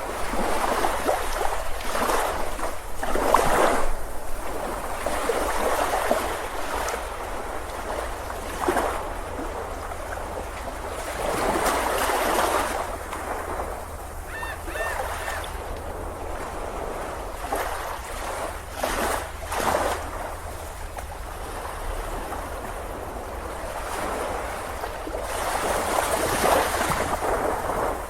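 Ocean waves breaking and washing up a beach, the surf rushing in and falling back in swells every few seconds. A few brief high chirps come about halfway through.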